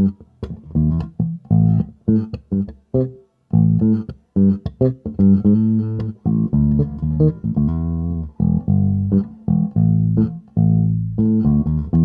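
Rebel Relic 1962 J-Series Jazz Bass-style electric bass played as a riff of plucked notes: short, clipped notes with brief gaps at first, moving into longer held notes in the second half.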